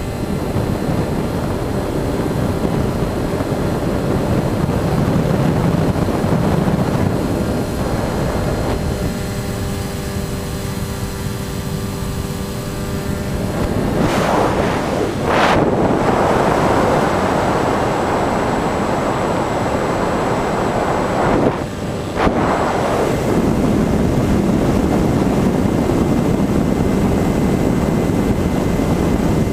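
Finwing Air Titan electric R/C plane in flight: the steady hum of its electric motors and propellers under heavy wind rushing over the microphone. The rush swells sharply about halfway through and again after about two thirds.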